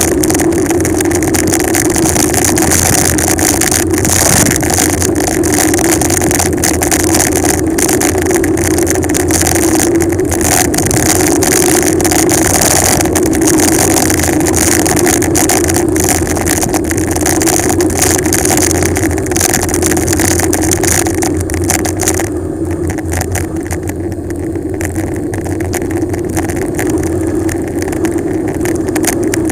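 Wind rushing over an action camera's microphone with tyre and road noise during a fast bicycle descent, dotted with small clicks and rattles. It eases a little about three-quarters of the way through.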